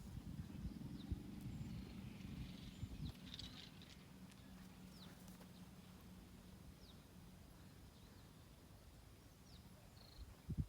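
Faint outdoor ambience with a few short, high bird chirps scattered through it and a low steady hum that fades out about halfway.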